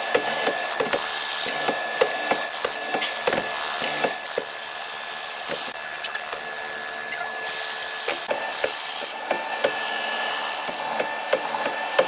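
A power tool working hardwood, running with a steady whine and a dense string of sharp clicks and knocks.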